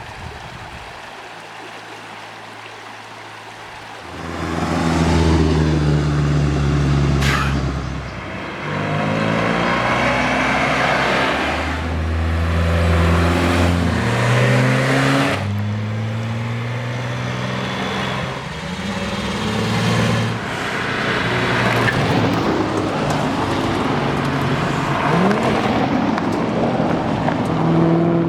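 Classic car engines running and revving, loud from about four seconds in, with the engine note changing pitch in steps.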